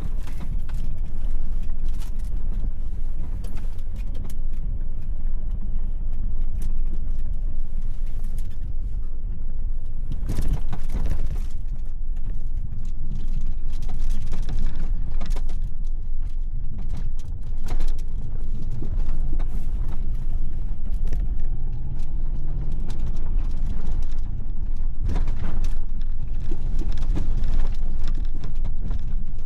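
Interior of a V8 four-wheel-drive vehicle driving a rough, snowy trail: a steady low engine and road rumble with frequent rattles, knocks and creaks from the body and load as it bumps along.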